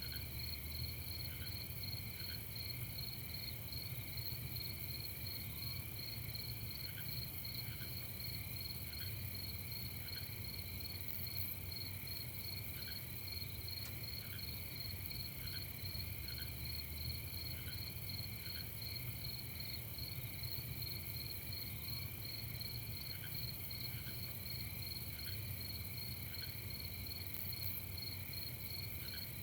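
Night chorus of crickets and other insects chirping steadily in several overlapping, rapidly pulsing trills. A shorter, lower chirp repeats every second or two, over a faint low rumble.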